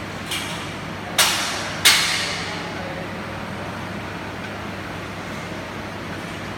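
Three sharp knocks within about two seconds, the last two loudest and each ringing off briefly, over a steady low hum.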